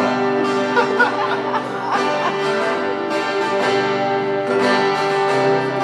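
Acoustic guitar strumming chords as a song intro, the chord changing about four and a half seconds in.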